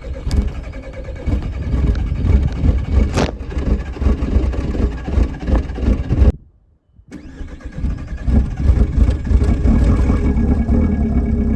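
Volkswagen 1.9 TDI four-cylinder turbodiesel running rough and knocking just after a cold start. The sound cuts out completely for most of a second a little past halfway, then the engine is heard running again.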